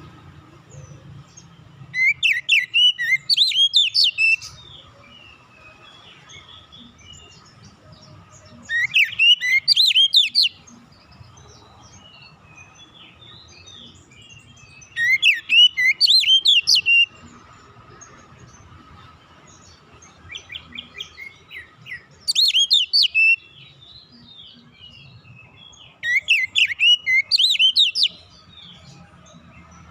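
Oriental magpie-robin (kacer) singing: five loud phrases of rapid, high, whistled notes, each about two seconds long and coming every six seconds or so, with a quick run of softer chips a little past the middle.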